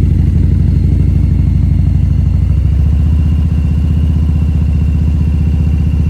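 Harley-Davidson V-twin motorcycle engine running steadily at low speed, a low rumble of rapid, even firing pulses.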